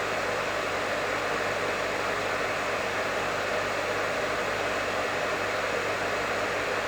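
Professional hair dryer running steadily: a constant rush of air with a low hum underneath.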